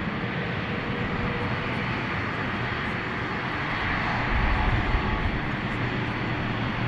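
Airliner engines running, a steady rush with a low rumble and a faint high whine, growing louder about four seconds in.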